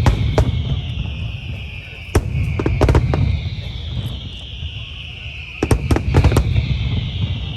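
Aerial fireworks shells bursting in clusters of sharp bangs, three groups a couple of seconds apart, with a low rumble between them.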